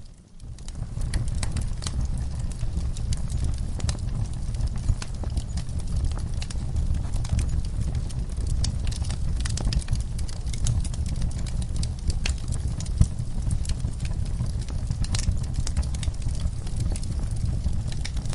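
Fireplace crackling with scattered sharp pops over a steady low rumble, with horses stirring in their stall. The sound drops out briefly at the very start, then carries on evenly.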